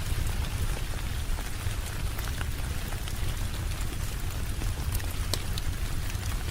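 Steady heavy rain with a deep low rumble beneath it, and scattered sharp pops and crackles from a wood fire.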